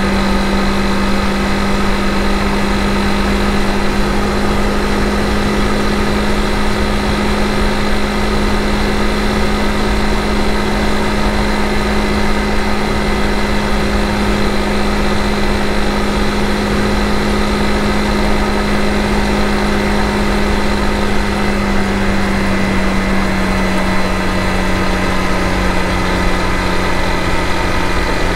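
Honda CRF250 Rally's single-cylinder engine running steadily while riding on an expressway, mixed with wind and road noise. The engine note drops slightly lower about three quarters of the way through.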